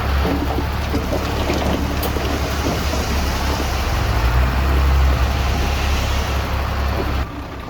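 Diesel engine of heavy earthmoving machinery running steadily with a deep hum and a rough clatter over it, dropping in level near the end.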